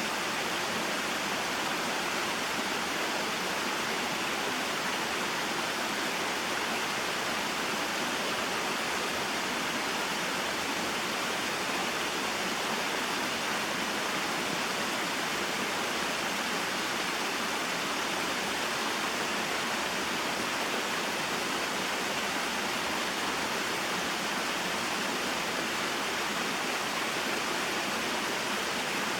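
Small waterfall and stream in a mountain forest, water flowing and splashing steadily.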